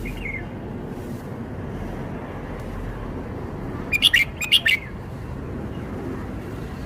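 Red-whiskered bulbul singing one short phrase of several quick, loud notes about four seconds in, with a faint note at the start, over a steady low background rumble.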